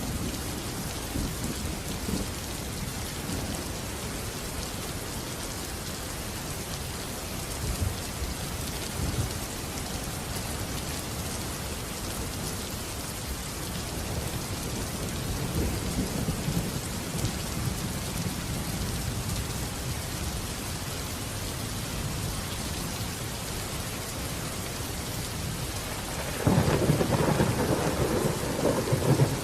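Steady rain with low thunder rumbling, and a sudden, louder peal of thunder near the end that lasts about three seconds.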